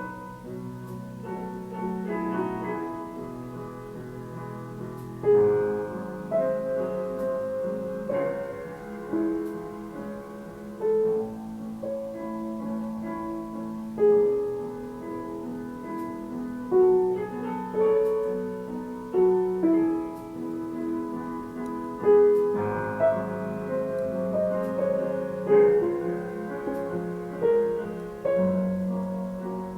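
Solo piano music: a melody of struck notes over lower chords, each note fading after it is played.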